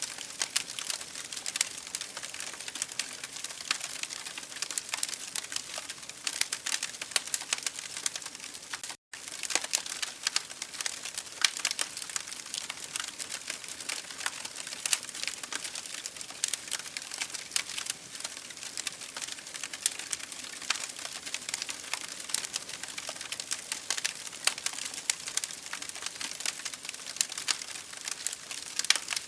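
Wood fire in an open fireplace crackling, with dense irregular pops and snaps over a soft hiss. The sound drops out for a split second about nine seconds in.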